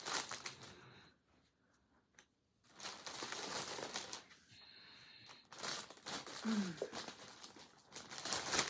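Packaging crinkling as yarn is handled, in three bursts with short quiet gaps between them.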